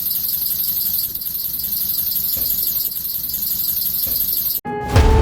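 LEGO V4 pneumatic engine running on compressed air: a steady, high-pitched air hiss with a fast rhythmic chatter from its valves and cylinders. It cuts off suddenly near the end, and background music comes in.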